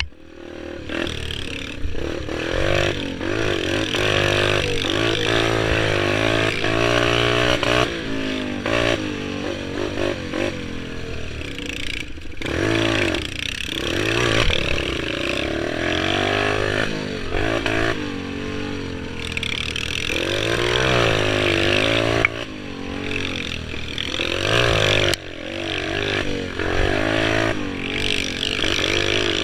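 Pit bike engine being ridden hard, revving up and easing off again and again so its pitch keeps rising and falling.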